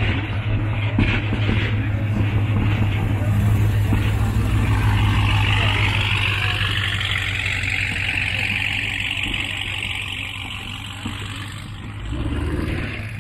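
A motor vehicle running, with a steady low engine hum. A hiss of road or tyre noise swells in the middle and fades toward the end.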